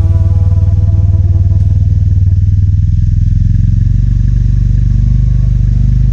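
Royal Enfield Interceptor 650's parallel-twin engine running steadily under way, heard from the rider's seat. A steady higher tone sounds over it for about the first three seconds, then fades.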